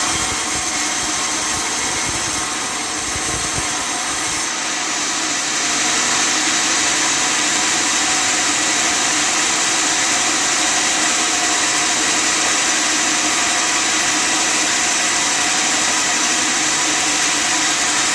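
Custom-made table sawmill running with a steady mechanical drone and hiss. The sound shifts abruptly about four and a half seconds in, then holds steady.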